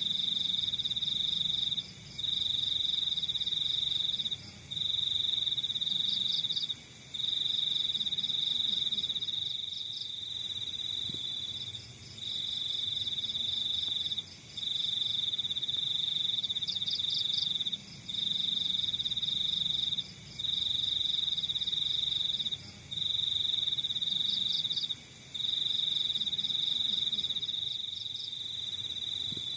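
Crickets trilling: a loud, steady high-pitched trill in phrases of about two seconds, each broken by a short pause, with a quieter, faster pulsing chirp from another caller just above it every several seconds.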